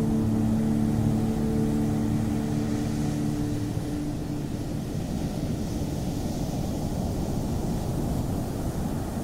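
Ocean surf making a steady low rumble, with a few held musical tones that fade out about four seconds in.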